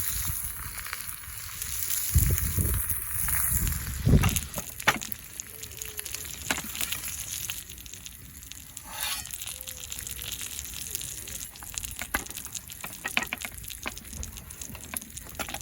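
Food sizzling in a pan over a wood fire, with the fire crackling and popping throughout. A few dull knocks in the first four seconds.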